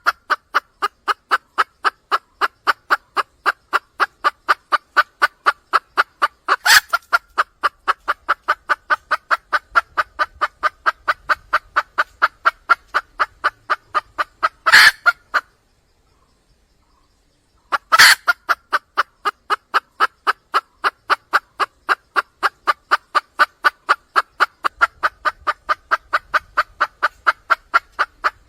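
Junglefowl hen calling to attract a cock: a fast, very even run of short clucks, about four or five a second. Three louder, sharper notes break in, and the run pauses for about two seconds past the middle.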